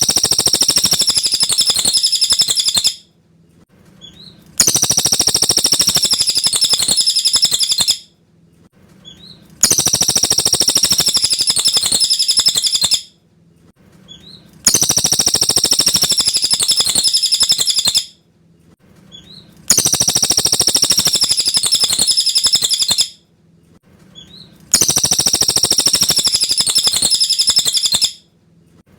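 Cililin bird singing: a clear, high-pitched chattering phrase about three seconds long, repeated six times at even spacing with short pauses between, as on a looped tutor recording for training songbirds.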